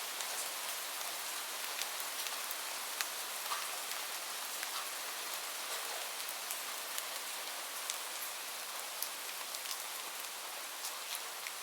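Steady hiss of gentle rain, with sharp crackles of a wood fire popping irregularly through it.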